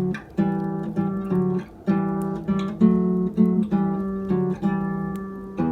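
Almires Spanish classical nylon-string guitar playing a figure of two-note intervals plucked on the low strings, about a dozen short ringing dyads at roughly two a second. The last one rings on near the end.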